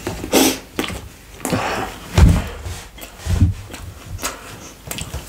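Close-miked chewing of a mouthful of pizza, with wet mouth clicks and smacks, and two dull low thumps about two and three and a half seconds in.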